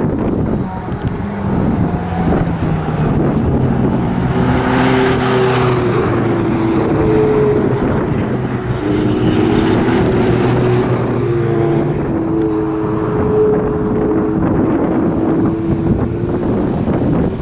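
Ferrari 488 GTB's twin-turbo V8 being driven hard, its pitch climbing and dropping back several times with gear changes and lifts, loudest as the car passes about five seconds in. Wind buffets the microphone.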